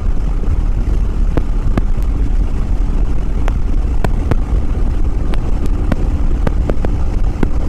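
Yamaha WR250R's single-cylinder engine running steadily at highway speed, under a heavy low wind-and-road rumble on the microphone, with scattered sharp clicks.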